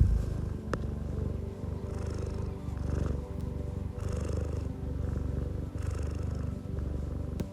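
Domestic cat purring close to the microphone, a low rumble that swells and fades about once a second with its breathing. A brief click comes about three quarters of a second in.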